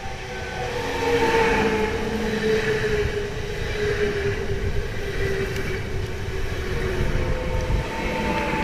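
A train going by close at speed: steady wheel-on-rail rushing with a held whining note on top. It grows louder about a second in and stays loud.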